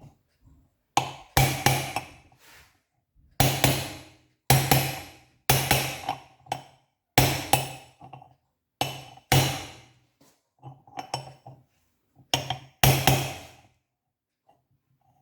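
Hammer blows on a metal part: about a dozen sharp strikes, often in pairs, each ringing briefly at the same pitch.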